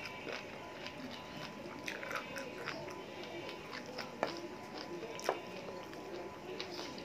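Close-up mouth sounds of a person eating chicken by hand: chewing and wet smacking with many small sharp clicks, two louder clicks about four and five seconds in.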